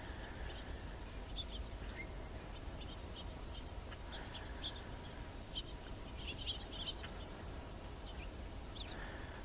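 Small birds at feeders giving short, scattered chirps, over a steady low rumble.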